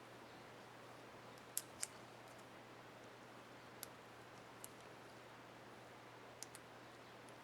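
A few faint, sharp plastic clicks over a steady low hum and hiss. Two come close together about one and a half seconds in, then single clicks follow at intervals: a laptop keycap and its plastic retainer clip being handled.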